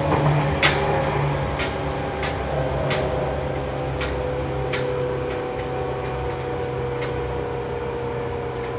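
Running noise of a Seibu 101-series electric train heard from inside a motor car: a steady low hum from the traction motors and gearing, with a few held tones above it. Sharp clicks and ticks come through it at irregular intervals, about seven in all.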